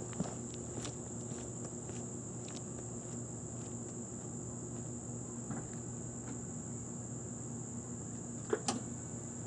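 Steady high-pitched insect trill over a low, even hum, with scattered light clicks and knocks; a louder pair of clicks comes near the end.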